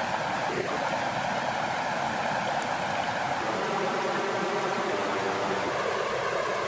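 Steady rushing of flowing water, an even hiss without pauses.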